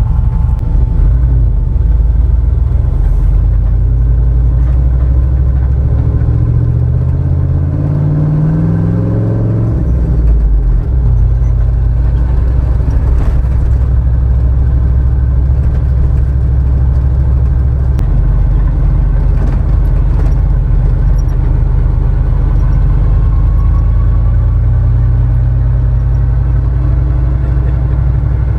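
Suburban's engine running as it drives through snow. The engine note climbs for a few seconds, drops about ten seconds in, then holds fairly steady.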